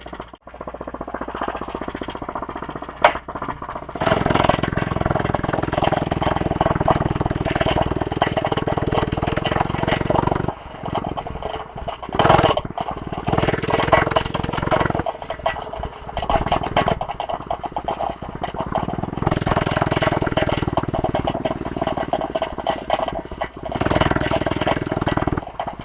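Small gas minibike engine running. It starts about four seconds in and gets louder and quieter several times as it is throttled up and eased off.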